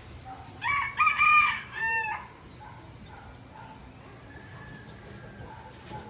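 A single loud bird call in three parts, lasting about a second and a half and starting about half a second in; the last part falls in pitch.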